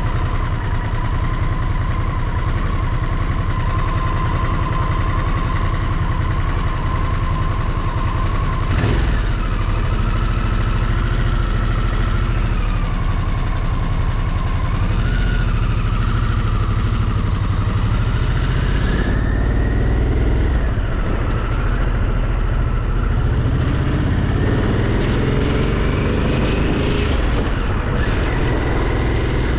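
Motorcycle engine running during a ride: the engine note holds steady, drops sharply about nine seconds in, then climbs several times as the bike accelerates through the gears, over a constant low rumble.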